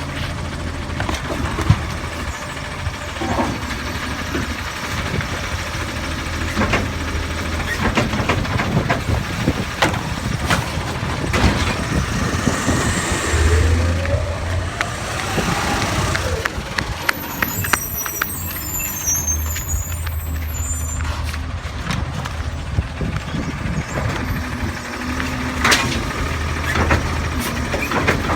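Autocar garbage truck with a New Way Sidewinder automated side-loader running, its engine humming steadily with scattered clanks and air-brake hisses. About halfway through, the engine pitch rises and falls once.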